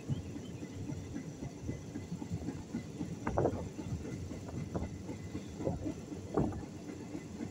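Passenger train running on its rails, heard from on board: a steady rumble and rattle with several louder clunks, the strongest about three and a half and six and a half seconds in.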